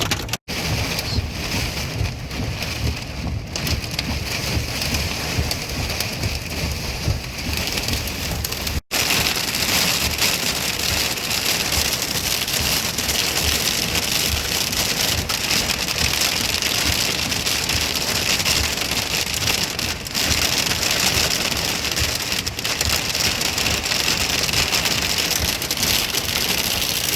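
Heavy thunderstorm rain beating steadily on a vehicle, a dense patter of many small impacts, growing louder after about nine seconds. The sound cuts out completely for an instant twice, once near the start and once about nine seconds in.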